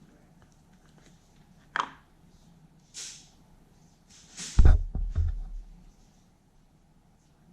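Hand work with tools and metal parts on a bench: a sharp click, a brief scraping rustle, then a heavy thump and clatter as something is set down or knocked, about halfway through.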